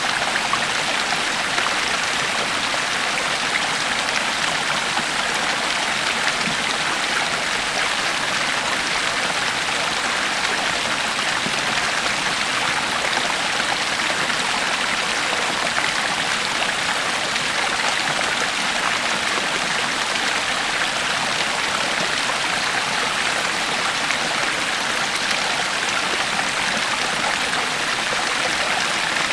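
A creek flowing: steady, even rushing and splashing of water over rocks.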